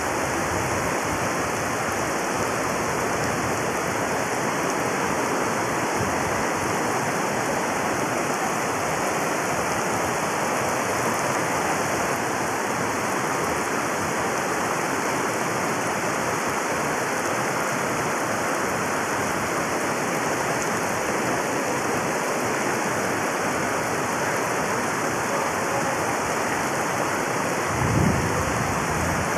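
Heavy downpour: a dense, steady hiss of rain pelting a flooded road surface. Near the end there is a brief low rumble.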